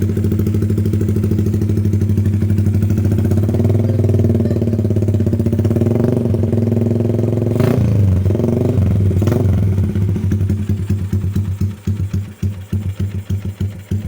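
Yamaha New Jupiter MX's single-cylinder four-stroke engine running through an aftermarket WRX GP6 R2 carbon-kevlar exhaust fitted with a half baffle. It runs steadily at a raised idle, gives two quick throttle blips about eight and nine seconds in, then drops to a lumpy, pulsing idle near the end.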